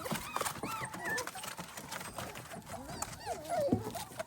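Young puppies whimpering: a few short, faint, high cries that rise and fall, around half a second in and again after three seconds, over light scratching and tapping of paws.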